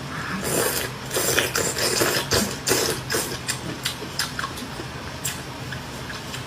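Close-miked chewing of crunchy food: a rapid, irregular run of crisp crunches and wet clicks that thins out after about five seconds.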